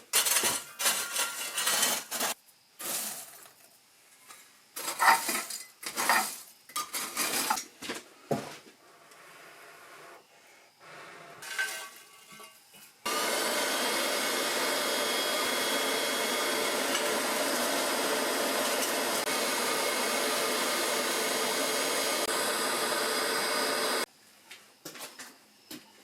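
Irregular clanks and rattles of metal being handled for about twelve seconds. Then a steady, even hissing machine noise starts abruptly and cuts off just as abruptly about eleven seconds later.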